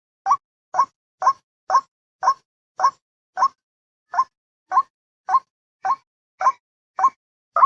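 White-breasted waterhen's 'wak-wak' call, played as a bird-trapping lure: a fast series of short, upward-sliding notes, about two a second, with one slightly longer pause near the middle.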